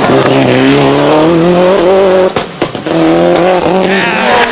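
Toyota Celica GT-Four ST185's turbocharged four-cylinder revving up and holding high revs. About halfway through the throttle lifts briefly and the anti-lag system pops and bangs, then the engine pulls again.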